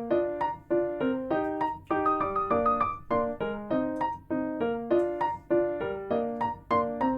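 Background music: piano playing repeated broken chords in a steady, even rhythm.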